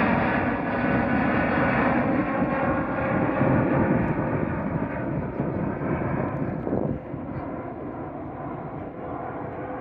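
Jet airliner engines passing by and fading away: a rushing roar with a steady whine that grows quieter through the second half, dropping off about seven seconds in.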